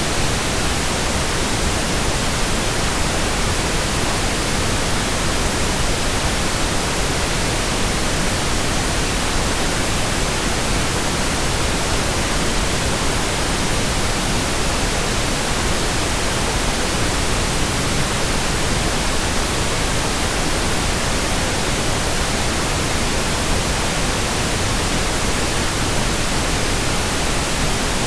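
Steady white noise: an even hiss spread across the whole range from low to high, holding one level without change.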